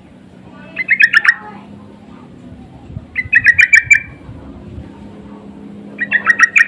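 Yellow-vented bulbul (trucukan) calling in three loud bursts of quick chattering notes, a couple of seconds apart.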